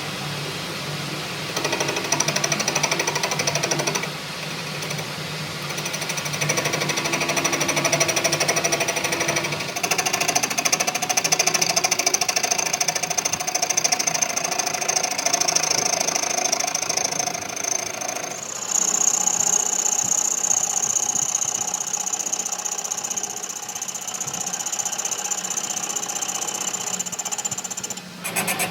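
A motor-driven tool runs in long stretches with a rapid rattle, its whine changing pitch from one stretch to the next, over a steady low hum.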